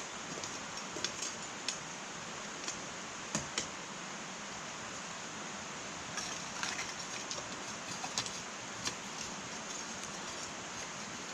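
Wood fire burning in an irori, a Japanese sunken hearth: a steady hiss with scattered sharp crackles and pops, busiest from about six to nine seconds in.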